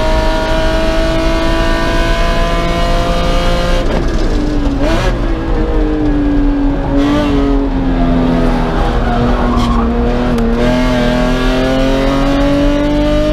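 A race car's engine heard inside the cabin at high revs. About four seconds in the revs drop sharply as it slows for a corner, stay low and uneven through the turn with some tyre noise, then climb steadily again near the end as it accelerates out.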